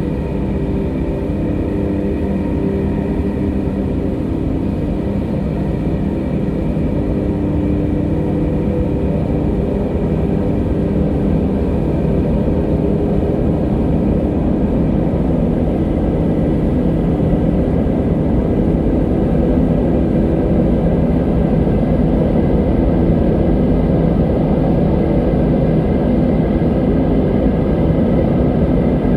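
Steady wind noise, a deep rushing rumble carrying a few faint steady whistling tones, growing slightly louder through the stretch.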